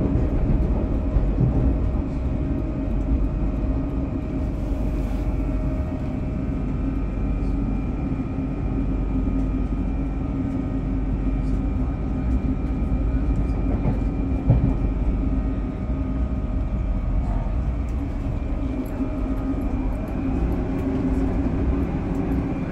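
Inside a South Western Railway Class 458/4 electric multiple unit in motion: a steady running rumble with a constant hum. One sharp clack comes about two-thirds of the way through.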